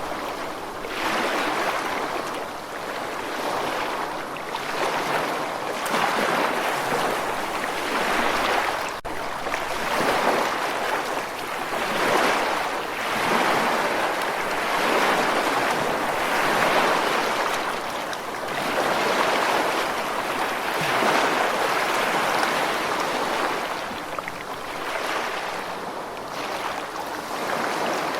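Ocean surf washing continuously, a steady rushing hiss that swells and eases every couple of seconds as waves break.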